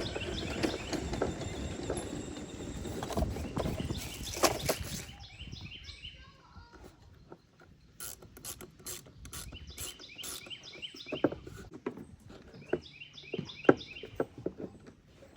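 Clattering and clicking of plastic and metal parts being handled for about five seconds, then scattered sharp clicks, with small birds chirping repeatedly in the background.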